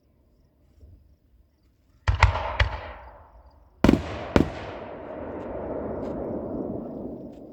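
Fireworks going off: a quick cluster of sharp bangs about two seconds in, then two louder bangs about half a second apart near four seconds. Each is followed by a long rolling echo that fades away near the end.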